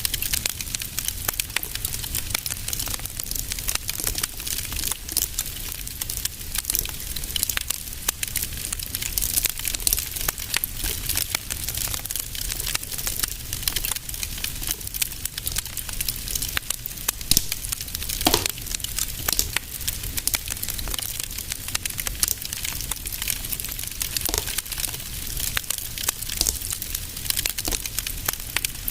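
Wood fire crackling and popping, a dense run of irregular snaps over a soft hiss and a low rumble. About two-thirds through, one brief falling whine.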